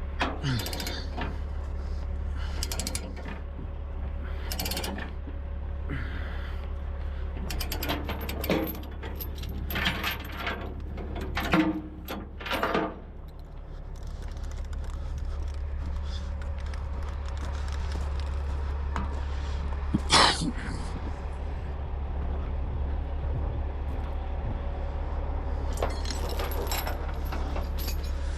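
Chains and a ratchet chain binder being worked to tie down a load: scattered metal clicks and clanks, busiest early on with a loud knock near the middle, over a steady low hum.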